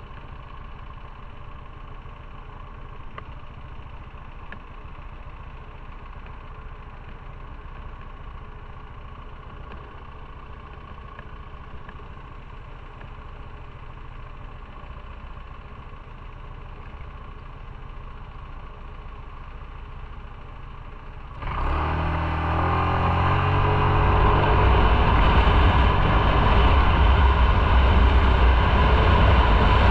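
Motorcycle engine idling steadily, then, about two-thirds of the way through, it pulls away with the revs rising. Loud wind and road noise build as it gets up to speed.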